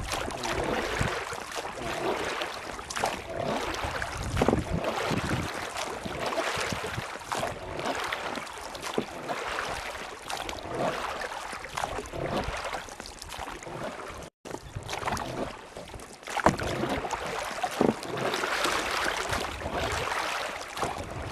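Rushing water with wind buffeting the microphone, broken by irregular knocks and splashes. The sound cuts out abruptly for a moment about two-thirds of the way through.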